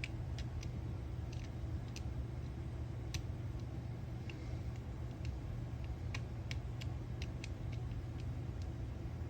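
Light, irregularly spaced clicks and ticks of small reel parts and tools being handled while a spinning reel is taken apart, over a steady low hum.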